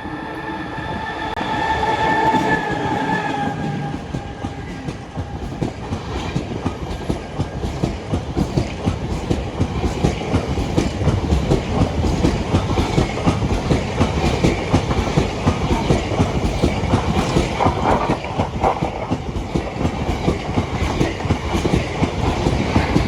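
Talgo passenger train passing at speed. A horn sounds a steady pitched tone for the first three seconds or so, then the wheels clatter rapidly over the rail joints as the cars go by.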